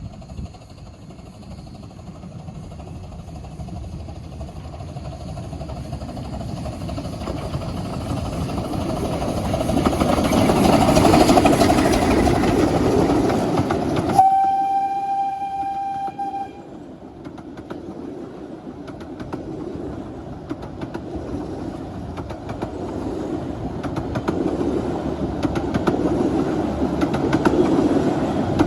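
A 15-inch-gauge miniature railway train passes, its running noise building over about ten seconds. A little after halfway a locomotive sounds one steady note for about two seconds. Train noise then builds again toward the end.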